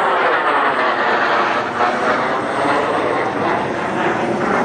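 Airplane engine droning loudly as a plane flies past, its tone sweeping as it goes by.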